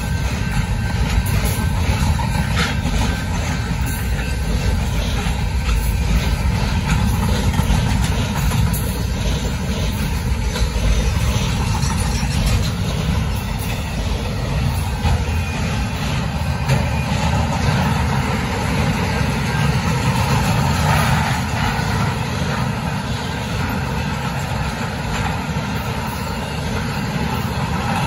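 Freight train cars rolling past close by: a steady rumble of steel wheels on rail.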